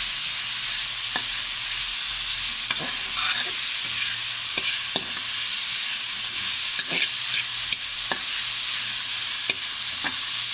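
Chicken and vegetable filling sizzling in ghee in a metal karahi while it is stirred with a spatula. Scattered sharp clicks and scrapes come from the spatula striking the pan.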